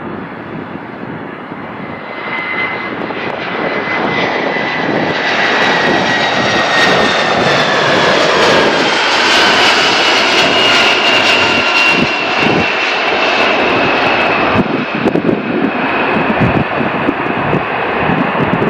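Boeing 767 jet engines running loud during a touch-and-go. The noise builds over the first few seconds, and a steady whine slowly falls in pitch as the airliner goes past.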